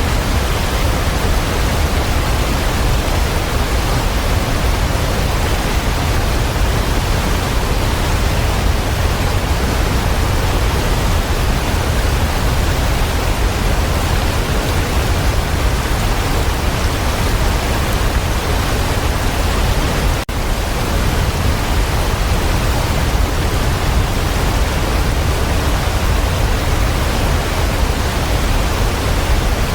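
Waterfall: a steady, full rush of falling water, heaviest in the low rumble, with one brief dip in loudness about two-thirds of the way through.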